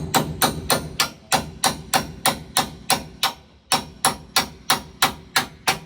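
Hammer striking metal on a combine during a concave change: rapid, even blows, about three a second, with a short break about three and a half seconds in before they resume.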